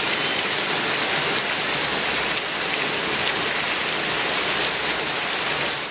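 Heavy rain pouring onto trees, grass and a road: a dense, steady hiss that stops abruptly at the very end.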